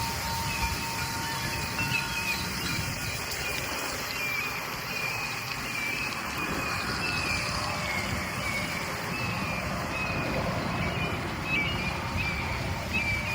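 Outdoor ambience: short, high chirps repeating over a steady rushing noise with a low, gusty rumble.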